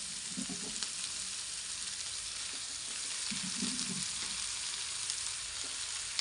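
Chopped vegetables sizzling steadily in hot oil in a kadai, with stirring as shredded cabbage is added, heard twice as a brief lower rustle over the sizzle.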